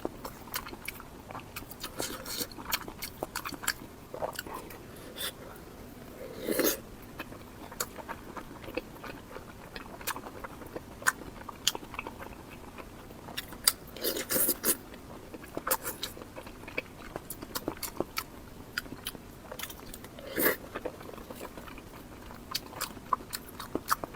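Close-miked eating sounds: a steady run of wet mouth clicks, chewing and soft crunches, with three louder, longer bursts of biting or slurping spread through.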